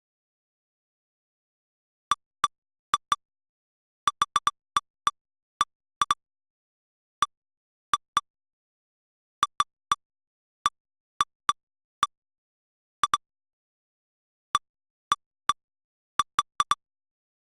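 Short electronic blips from a lightning-detector history replay, each marking a detected strike. They come at irregular intervals, singly, in quick pairs and in clusters of three or four, with dead silence between them and none for the first two seconds.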